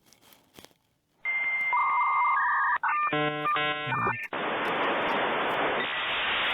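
Electronic tones and beeps, starting about a second in: two held tones, then a rapid warbling pattern, then a harsh steady hiss, all with a narrow telephone-like sound.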